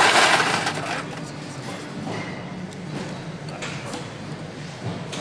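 Workshop noise: a loud hiss in the first second, then a steady low hum with a few faint clicks and knocks.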